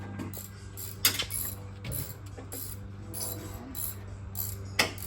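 Socket ratchet clicking in short runs as bolts are undone, over a steady low hum, with two sharp metallic knocks about a second in and near the end.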